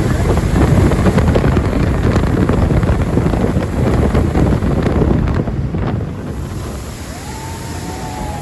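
Wind buffeting the microphone over rushing water and the run of a jet boat at speed; the noise eases off about six seconds in.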